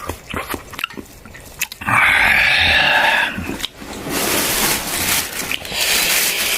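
Stir-frying in a wok: scattered clicks of a spatula against the pan. About two seconds in there is a loud harsh noise lasting over a second, then steady sizzling.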